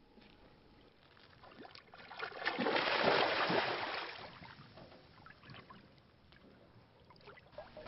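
A swell of rushing, sloshing water noise that builds about two seconds in and fades away by about five seconds, with a few faint knocks.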